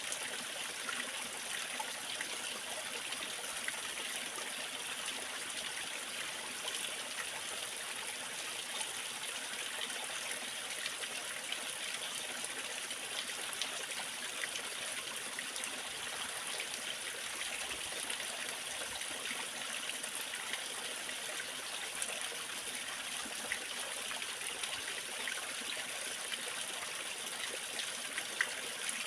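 Small waterfall's water falling and splashing in a steady, even rush, with small splashes and drips flicking through it.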